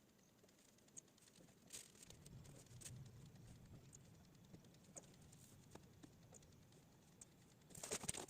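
Faint, scattered clicks of someone working a computer, about one a second, over quiet room tone, with a short louder clatter near the end.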